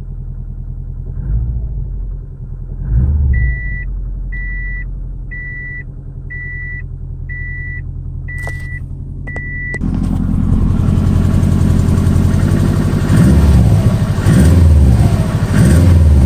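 Car engine idling and briefly revved a few times, with seven short beeps about a second apart in the middle. From about ten seconds in the engine sound turns louder and rougher, with three revs near the end; the owner suspects an exhaust leak.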